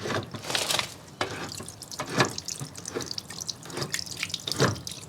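Water dripping and splashing irregularly from the drain-pump filter plug of a Samsung front-load washing machine, leaking out past the plug's cracked seal.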